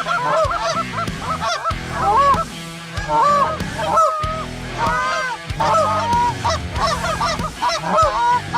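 A flock of Canada geese honking and clucking, many short calls overlapping continuously as they come in toward the decoys.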